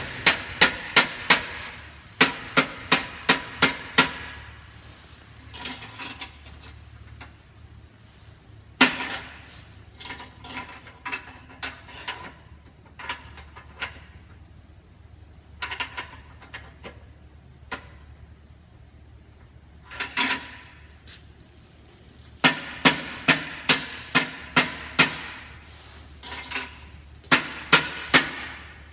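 Runs of sharp metallic blows, four to seven in quick succession, with single knocks in between, each ringing briefly: the exhaust of a 1982 Honda CM450E being struck to free it, because it is stuck on the bike.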